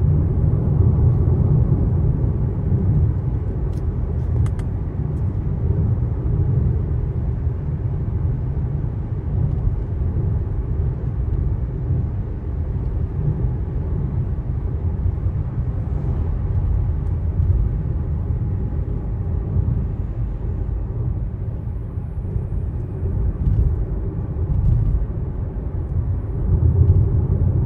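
Mazda CX-5 driving along: a steady low rumble of road and engine noise that swells and eases a little, loudest near the end.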